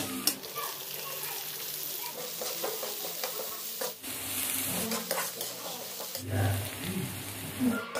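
Chopped garlic sizzling in hot oil in a kadai as a spatula stirs it. About four seconds in, chopped onion and green chilli go into the pan and are stirred, the sizzling going on with the spatula scraping the pan.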